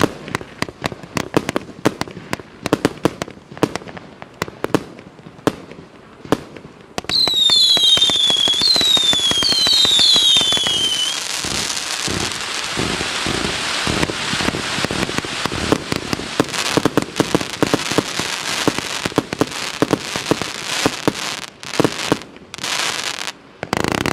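Mixed-calibre firework cake firing: a rapid run of launch thumps and bursting shots. About seven seconds in, it turns louder, with several whistles falling in pitch over a dense hissing rush. Then come more rapid shots.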